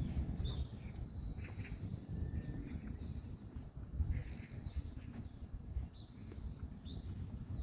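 Forest birds giving short, scattered high chirps and calls over a steady low rumble of wind and walking.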